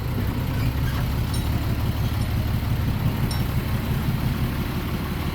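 Heavy diesel earthmoving machine engine running steadily at low speed, with a couple of faint short high squeaks.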